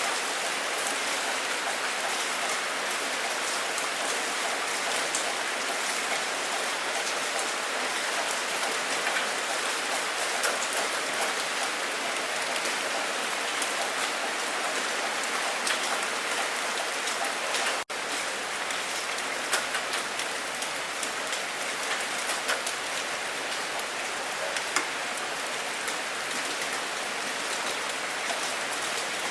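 Steady heavy rain falling, a continuous hiss with many individual drop hits. A split-second dropout breaks it about two-thirds of the way through.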